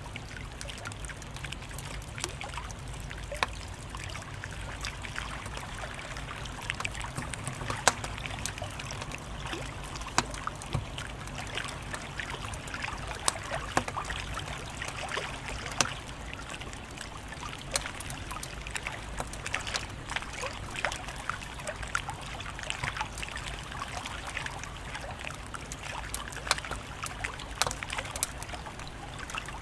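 Wood fire crackling in a fireplace: irregular sharp pops and snaps over a steady soft hiss and low rumble.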